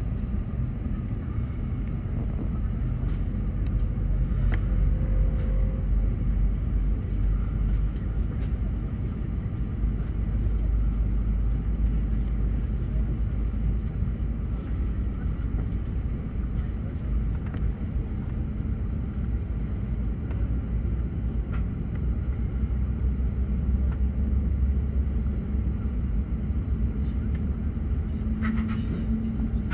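Airbus A380's jet engines running at idle before takeoff, heard from inside the cabin as a steady low rumble.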